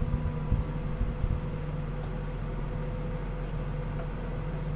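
Towing vehicle's engine running steadily under a light load, heard from inside the cab, with a few short low thumps in the first second or so as the loaded trailer jolts behind.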